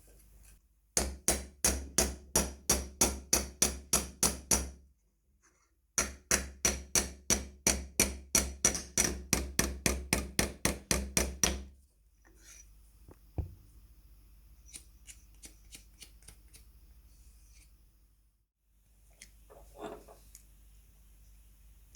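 Rapid, evenly spaced hammer blows on metal, about four a second, in two runs of several seconds with a short pause between. They are followed by lighter scattered taps and clicks.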